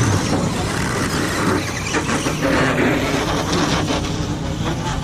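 Scale RC monster trucks running on a dirt track: their motors and tyres make a steady busy noise, with a few short knocks in the middle.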